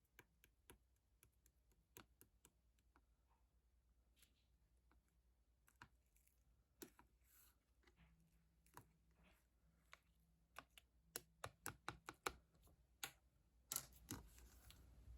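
Purple slime being squeezed and poked by hand, giving quiet scattered clicks and pops. The clicks come faster about eleven seconds in, and there is a louder squish near the end.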